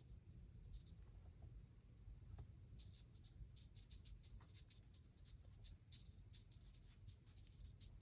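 Faint scratching and rubbing of a craft tool on journal paper, in quick irregular strokes that grow busier about three seconds in.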